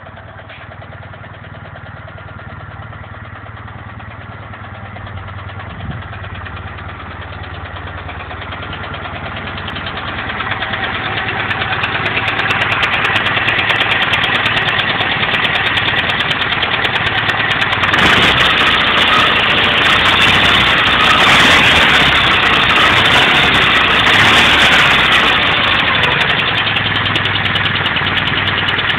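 Vehicle engine running with a rapid, even knock. It grows louder over the first dozen seconds and then stays steady.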